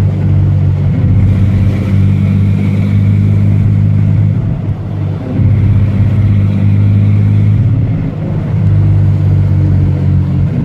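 Ranger's engine running with a misfire that a long list of changed parts has not cured. It picks up speed slightly twice, in two spells of about three seconds each, and settles back in between and at the end.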